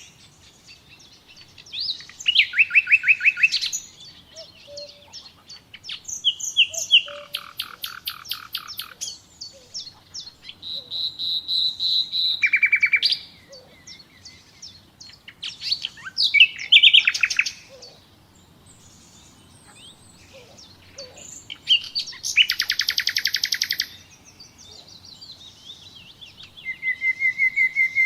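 Nightingale singing: about six separate phrases of fast repeated notes and rattling trills, one of them a long whistled note that swells louder, with short pauses between phrases.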